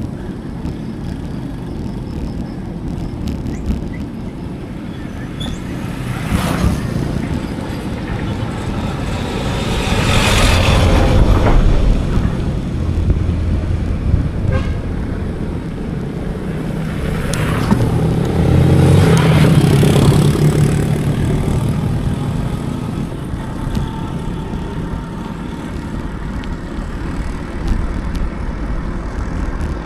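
Steady wind and road rumble on an action camera's microphone while cycling, with two motor vehicles passing, one about ten seconds in and another around nineteen seconds, each growing louder and then fading.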